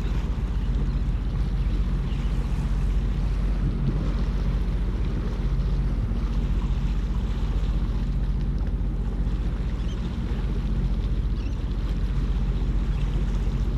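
Jet ski engine running steadily, with wind buffeting the microphone and water noise.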